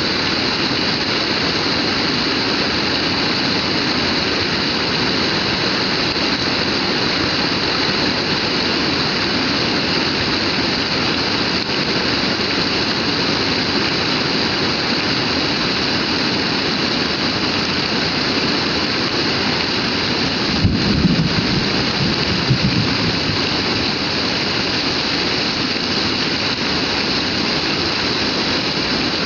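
Heavy rain falling steadily, a dense, even hiss. About two-thirds of the way through, a short low rumble swells up briefly.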